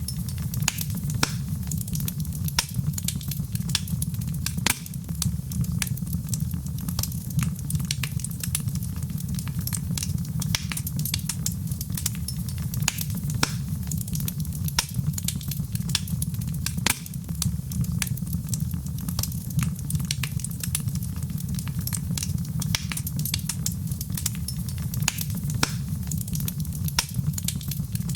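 Wood fire burning in a fireplace, with a steady low rumble of the flames and frequent irregular crackles and pops.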